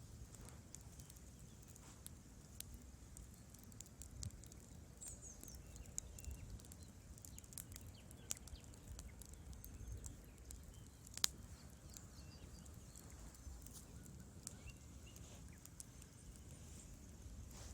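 Wood fire burning in a fireplace: a low steady rumble with faint, irregular crackles and pops from the logs, one sharper pop about eleven seconds in.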